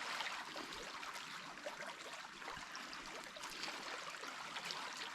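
Stirring stick working a wet flour-and-water dough in a pot lid: faint, irregular small scrapes and wet clicks over a steady hiss.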